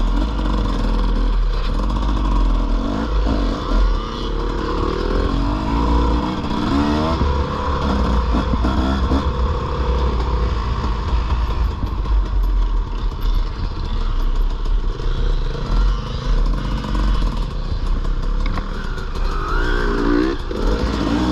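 Dirt bike engine running while being ridden, its pitch rising and falling again and again with throttle and gear changes, over a heavy low rumble.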